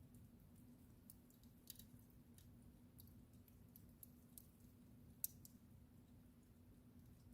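Faint wood fire crackling in a fireplace: scattered sharp pops and snaps, the loudest about five seconds in, over a steady low hum.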